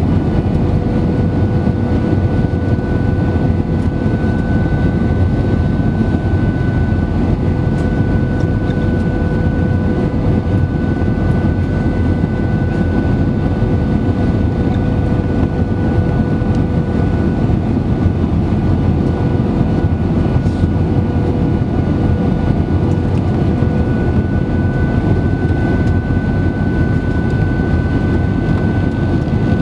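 Steady cabin noise inside an Airbus A320-200 on its approach to landing: engine drone and airflow rush, with steady whine tones running through it.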